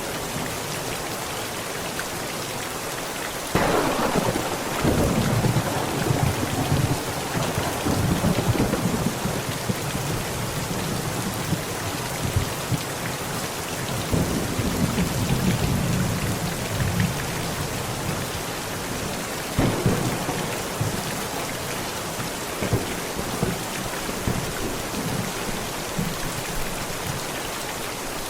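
Heavy rain falling on a tent, steady throughout. About three and a half seconds in a thunderclap breaks out and rolls on as low rumbling for several seconds; a second roll of thunder comes around the middle, and a smaller one a little later.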